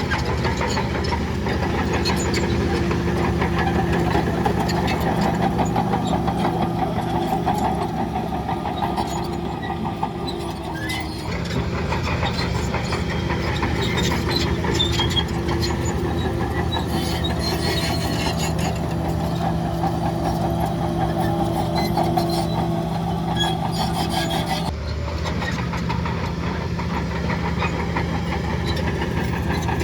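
Diesel engine of heavy earth-moving machinery running steadily, with scattered light clanks and rattles. The sound shifts abruptly twice.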